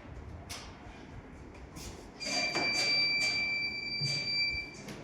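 CNC vertical machining centre being started: a few clicks and knocks, then about two seconds in a steady high tone comes on, holds flat for about two and a half seconds and cuts off.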